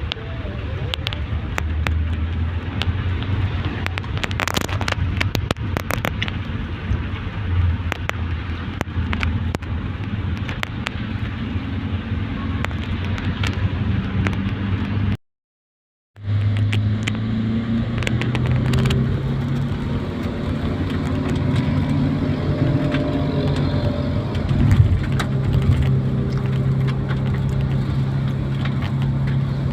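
A vehicle driving, its engine running as a steady low hum that shifts pitch in the second half, with scattered sharp ticks over it. The sound drops out completely for about a second midway.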